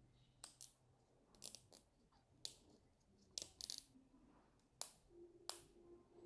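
A series of about ten sharp, light clicks and taps, some in quick pairs, as hard small parts are handled and set against one another. A faint steady hum comes in near the end.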